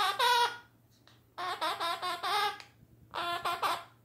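Quaker parrot (monk parakeet) babbling in speech-like chatter, mimicking human talk, in three short bursts.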